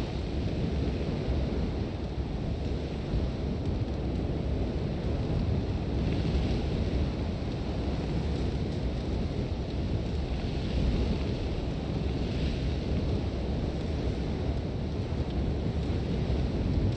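Strong wind blowing in a steady low rumble, with gusts of hissing sand swelling every few seconds.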